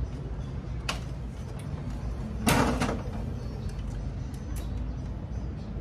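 A sharp click about a second in, then a short sliding scrape lasting about half a second, as parts of a photocopier are handled during repair, over a steady low hum.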